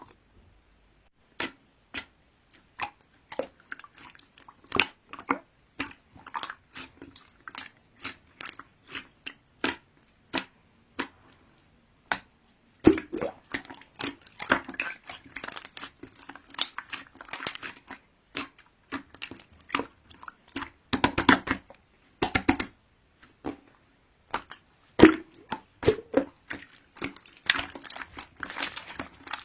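Crunchy chewing: close, irregular crackling bites of something hard and dry, sparse at first and coming thick and fast from about halfway on.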